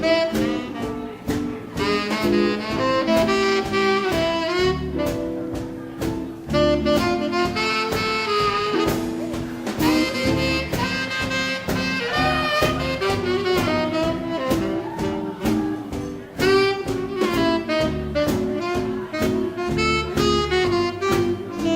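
Swing band playing an instrumental passage, a saxophone carrying the melody over a steady drum beat and bass.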